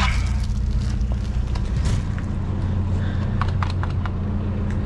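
Engine idling steadily with a low hum, with a few sharp clicks and rattles about three seconds in.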